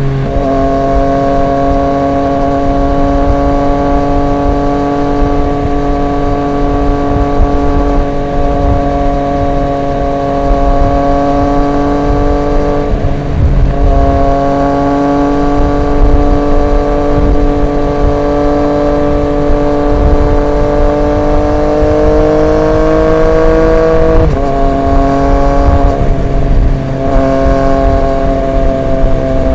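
Triumph Street Triple 765 RX inline three-cylinder engine running at a steady cruise through an SC Project S1 aftermarket exhaust. The note dips briefly about halfway through. It then rises gradually and drops suddenly near the end at an upshift.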